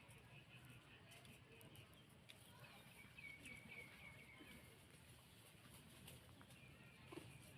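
Near silence with faint, high-pitched animal chirps in a short run about halfway through, and a few light ticks.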